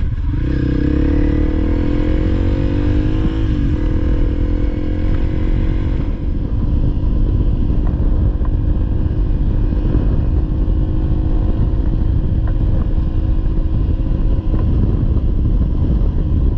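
Honda CRF300L's single-cylinder four-stroke engine under way, climbing in pitch for the first few seconds with a break about three and a half seconds in where it shifts gear, then holding a steady pitch. A heavy low rumble runs underneath.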